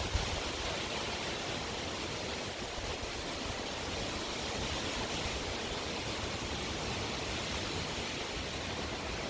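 Strong wind blowing steadily: an even rushing hiss with no distinct gusts, after a brief low buffet at the very start.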